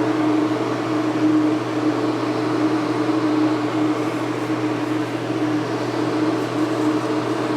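Paint spray gun spraying a dust coat of silver mini-flake in intercoat clear: a steady hiss of air with an even hum beneath it.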